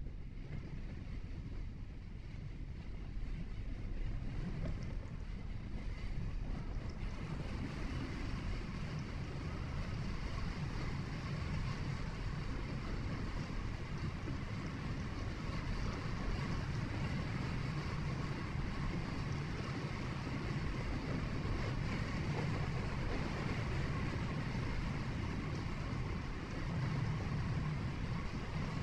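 Steady road noise of a moving vehicle: a low rumble of tyres and engine with wind hiss, growing a little louder in the first few seconds, then holding even.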